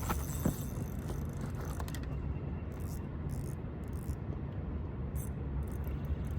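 Fishing reel working as a hooked carp is played: a steady mechanical whirr with scattered short clicks, over a low rumble.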